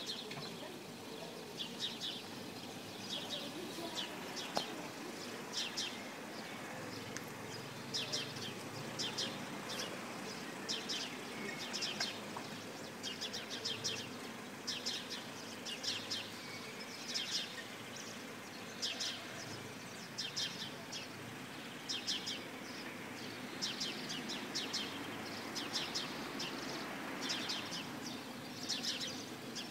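Small birds chirping: short, high chirps in quick clusters repeating throughout, over a faint, steady low background rumble.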